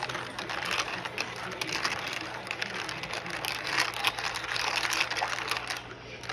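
Plastic keycaps clicking and swishing in soapy water as they are stirred with a plastic spoon, a busy rattle of many small clicks.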